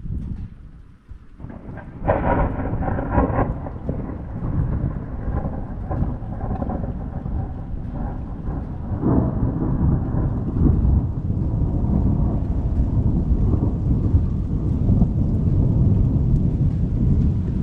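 Thunder: a sudden sharp crack about two seconds in that turns into a long low rumble, which swells again about nine seconds in. Steady rain hisses underneath.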